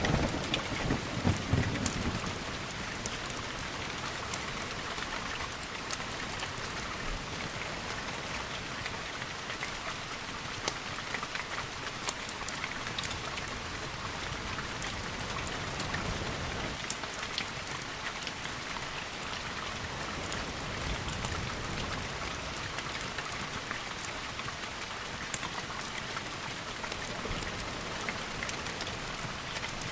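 Steady rain, with the tail of a thunder rumble fading in the first two seconds. Scattered sharp ticks sound over the rain throughout.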